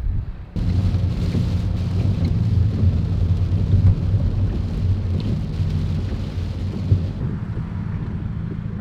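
A vehicle engine running with a steady low hum, under a heavy wash of wind or rain noise. It starts abruptly about half a second in, and the hiss eases off after about seven seconds.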